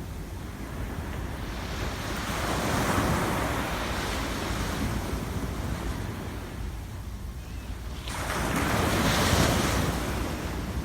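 Sea waves breaking on the shore, two swells of surf washing in and receding, the second one louder, over a steady low rumble of wind on the microphone.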